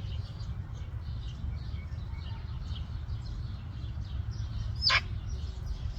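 Small birds chirping faintly and intermittently over a steady low rumble. About five seconds in there is one short, loud, sweeping call.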